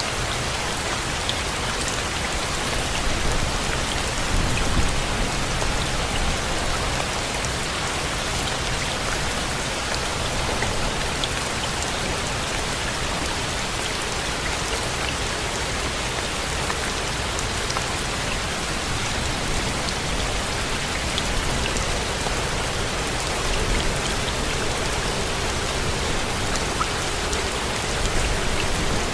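Steady rain: an even, dense hiss with scattered ticks of individual drops.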